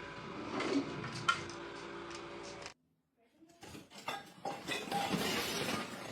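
Light clinks and clatter of small hard objects, over a steady hum, then a sudden cut and a second burst of clicking and rattling.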